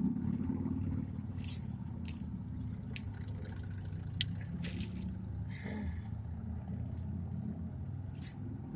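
Scattered small mouth clicks and smacks of someone eating a burger, over a steady low hum.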